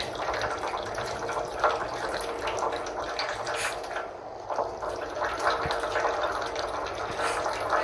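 Running water splashing steadily, with many small splashes and drips throughout.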